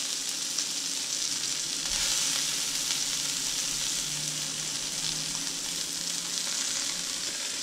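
Pork meatballs frying in olive oil in an uncovered skillet: a steady sizzle that swells slightly about two seconds in.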